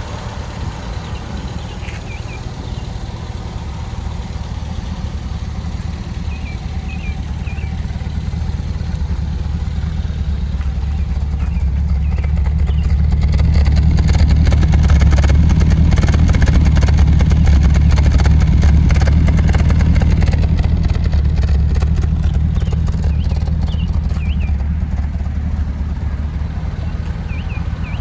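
1974 MGB's 1.8-litre four-cylinder engine idling steadily. It grows louder towards the middle and then eases off. A few faint high chirps come and go.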